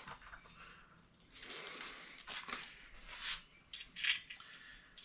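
Short scraping and clicking noises of metal parts being handled, a few in quick succession, as bolts are fitted to the water pump on an engine block.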